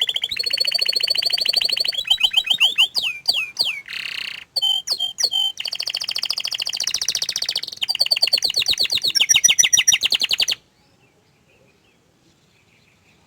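Domestic canary singing: a long, loud song of rapid trills, with swooping notes and a short buzzy note in the middle. The song breaks off suddenly about ten seconds in.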